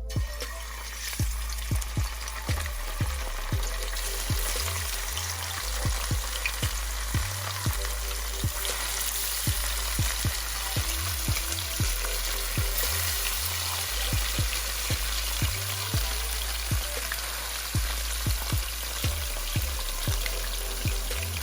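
Salmon shallow-frying in oil, a steady sizzle throughout, with faint background music with a beat underneath.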